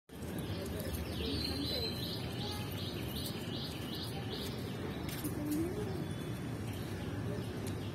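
Small birds chirping outdoors, with a quick run of repeated high notes, about three a second, in the first few seconds and a few lower wavering calls later, over a steady low background rumble.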